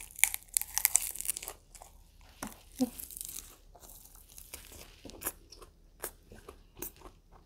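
Close-up mouth sounds of biting into and chewing a large lettuce wrap with a donggeurangttaeng meat patty: a dense burst of crisp crunching and tearing of the lettuce in the first second and a half, then slower, softer chewing of an overfull mouthful.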